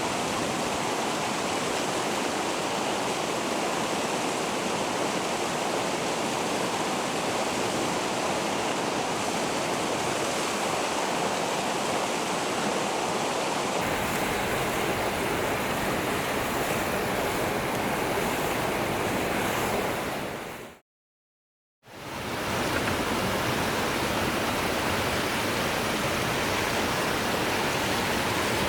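Steady rushing of a mountain stream, an even wash of water noise. It changes character slightly about halfway through, then fades out to silence for about a second and fades back in.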